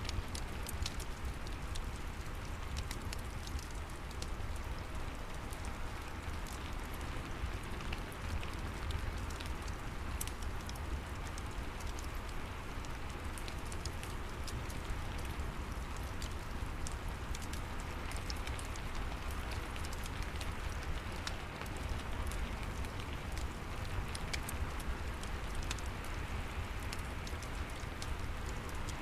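Steady rain with a crackling fireplace: an even hiss of rain over a low rumble, dotted with many small, sharp crackles.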